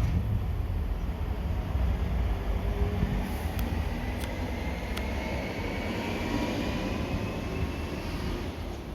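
Train passing with a steady low rumble, a faint whine that slowly rises in pitch, and a few sharp clicks about halfway through.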